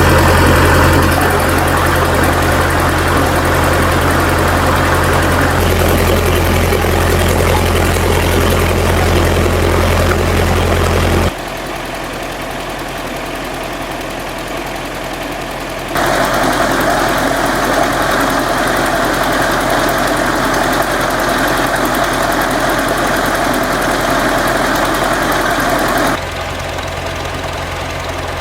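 An engine running steadily, with a low hum and a knocking note. It jumps abruptly louder or quieter several times as the shots change.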